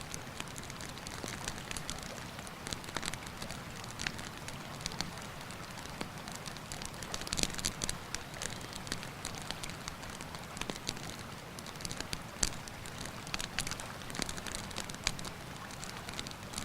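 Campfire crackling, with frequent sharp pops and snaps, over the steady rushing of a river.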